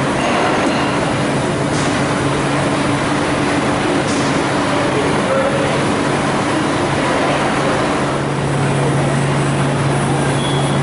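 Colchester Magnum LB800 heavy-duty gap-bed centre lathe running steadily: a loud, even mechanical noise with a low hum that grows stronger about eight seconds in.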